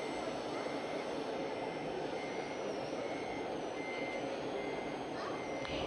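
Reversing beeper of a scale RC truck's sound module, beeping steadily about once a second over a steady whirring noise.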